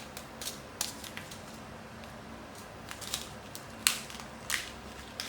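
Scattered light clicks and taps from small craft supplies being handled on a work surface, about nine in all, the loudest about four seconds in.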